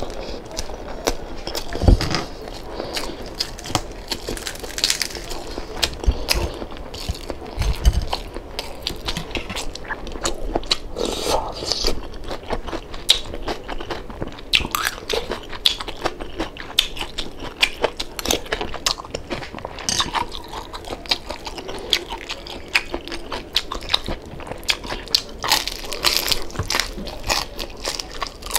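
Close-up eating of crispy deep-fried pork leg (crispy pata): a dense, continuous run of crunching and crackling bites and chewing of the crisp skin, with a few dull thumps in the first eight seconds.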